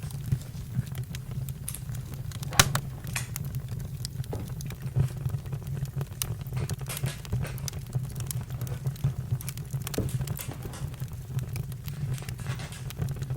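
Campfire crackling: scattered pops and snaps over a steady low rumble, with one sharper pop about two and a half seconds in.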